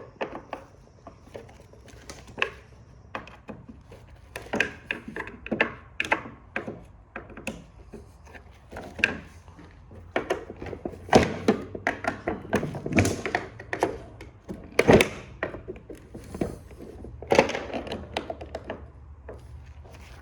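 Irregular clicks, taps and scrapes of hand tools working at a screw on a printer, digging packed dust and dirt out of its head so the bit can seat, with a few louder knocks.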